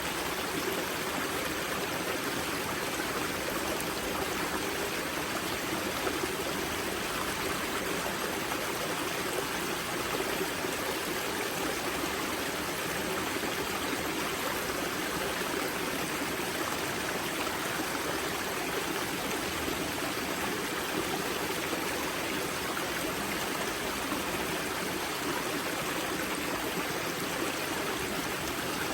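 The wellhead of a mountain river: water flowing and splashing over stones, a steady rushing sound that does not change.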